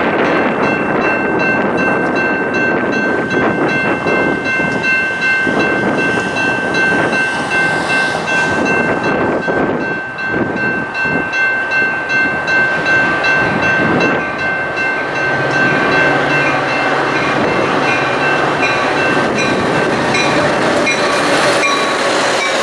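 A train rolling past at close range: continuous wheel-on-rail noise with steady high-pitched tones over it, easing briefly about halfway through.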